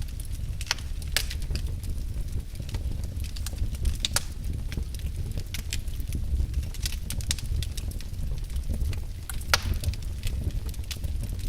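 Log fire crackling, with irregular sharp snaps and pops over a steady low rumble of the flames.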